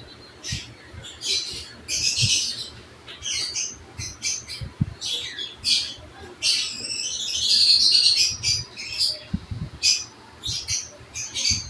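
Pet bird calling in a rapid series of short, high chirps and squawks, with a longer, louder harsh call about two-thirds of the way through.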